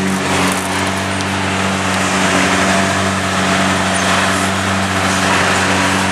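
Lamborghini V12 engine idling steadily, its pitch holding even with no revs.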